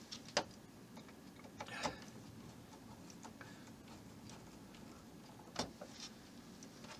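A few light, sharp clicks and taps of small plastic model parts, screws and a hand tool being handled, the loudest shortly after the start, about two seconds in and again about five and a half seconds in.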